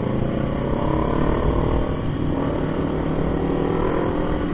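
Motorcycle engine running steadily on the road, its even drone over a steady rush of road noise.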